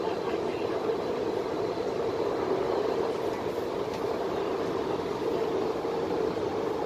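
Steady hum and rumble inside a crowded MTR West Rail Line C-Train carriage, with no distinct knocks or changes.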